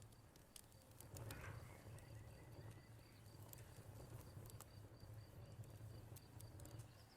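Faint wood fire crackling with scattered sharp pops, over the steady high-pitched chirping trill of crickets.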